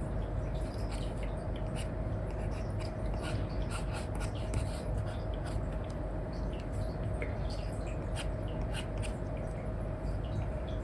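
Apple Pencil with an Elecom nib scratching and tapping on a paper-like screen film over an iPad, in quick irregular strokes, over a steady background hiss with a faint constant hum.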